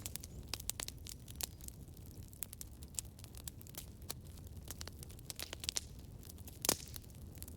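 Campfire crackling: a low steady rumble of burning with irregular sharp snaps and pops from the wood, one louder pop near the end.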